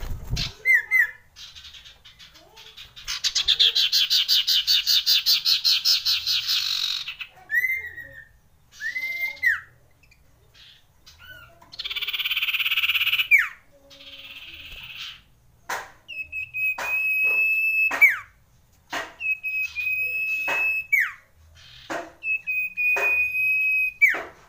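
Common iora singing: a fast rolling trill, a few short arched whistled notes and a harsh buzzy call. Then come three long, steady whistles, each ending in a quick downward slur.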